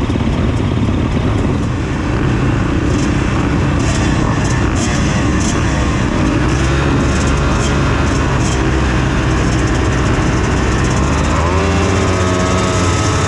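Yamaha YZ250F four-stroke motocross bike engine running hard on the track, its revs dropping and climbing again, with a clear rise in pitch near the end.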